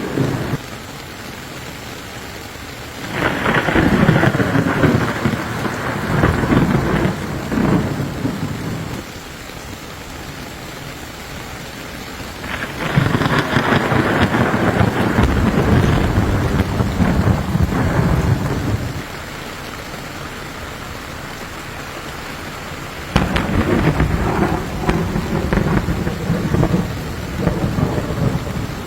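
Steady rain with thunder rolling three times, each roll building and fading over several seconds.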